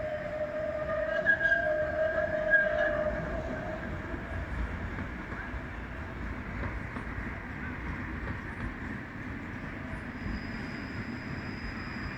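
A Vityaz-M tram's wheels squealing on a curve: a high, shrill squeal of several steady tones. It fades out after about three and a half seconds, leaving the low rumble of the tram rolling on.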